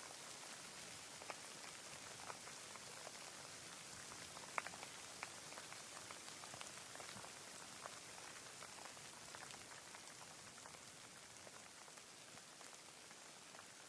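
Steady light rain: an even hiss with scattered individual drops ticking, one sharper drop about four and a half seconds in, growing slightly fainter toward the end.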